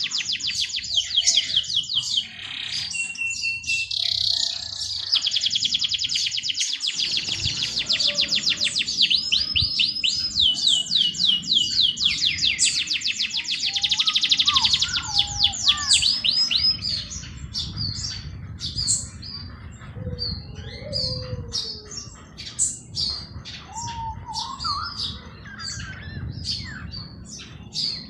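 Songbirds chirping in fast, dense trills of high repeated notes, thinning after about two-thirds of the way to scattered chirps and a few lower whistled phrases. A low rumble runs underneath from about a quarter of the way in.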